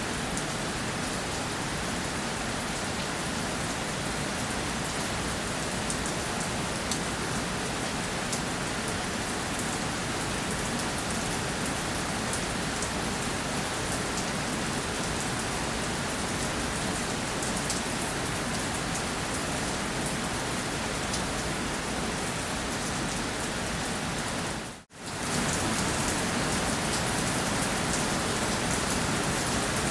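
Steady rainfall with fine pattering drops. It cuts out for a split second about 25 seconds in, then comes back a little louder.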